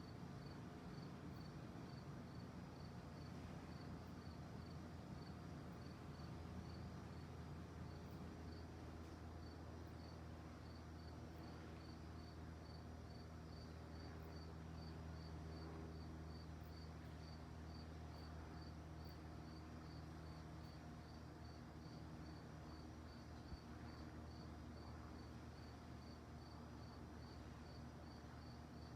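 Crickets chirping faintly in an even, steady rhythm, about two or three chirps a second, over a low steady rumble.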